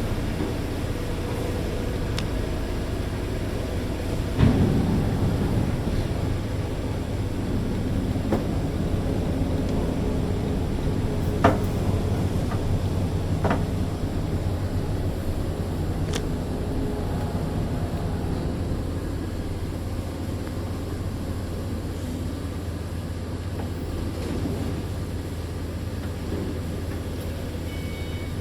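Steady low hum and rumble of factory machinery running, with a few sharp knocks and clicks, the loudest about four seconds in.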